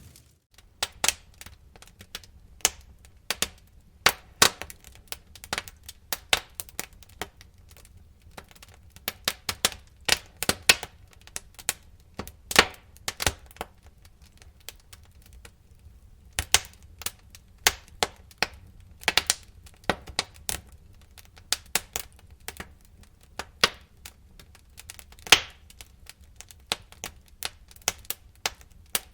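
Bonfire crackling: irregular sharp pops and snaps of burning wood, several a second, over a faint low rumble.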